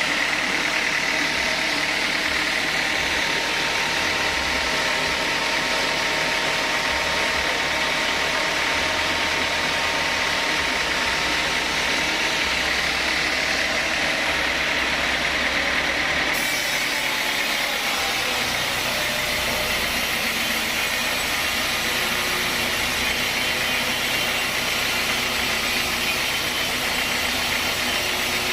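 Sawmill saw running steadily with its engine, cutting teak logs into beams. The sound changes slightly about two-thirds of the way in.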